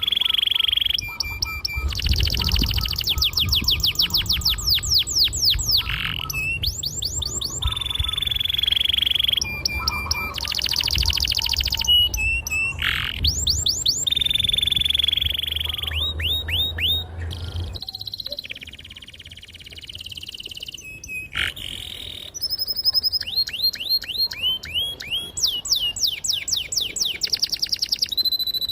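Domestic canary singing continuously: rapid repeated trills and rolls alternating with long held whistles, changing phrase every second or two.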